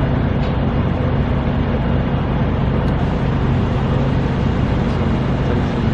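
Steady loud rumble with a low hum, with no distinct events.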